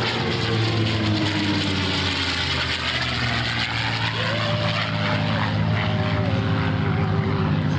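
Propeller-driven P-51 Mustang warbird's Merlin V12 engine droning as it flies its display, the pitch shifting as the plane moves past.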